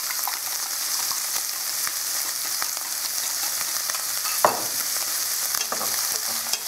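Chopped green onion scapes sizzling steadily in ghee in a stainless steel frying pan over fairly high heat, with small crackles. About four and a half seconds in, a utensil clinks and scrapes against the pan as they are stirred.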